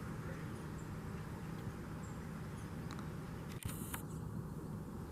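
Quiet outdoor background with a steady low rumble and no rooster crow, broken by one short click with a brief hiss about three and a half seconds in, typical of camera handling.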